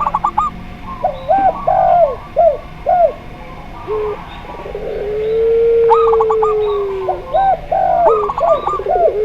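Zebra dove, spotted dove and Barbary dove cooing together. Quick runs of high notes and a series of arching coos are joined from about five seconds in by one long, held low coo lasting about two seconds.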